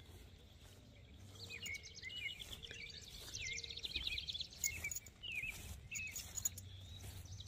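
Faint rural outdoor ambience with a songbird calling in a run of short, repeated chirps.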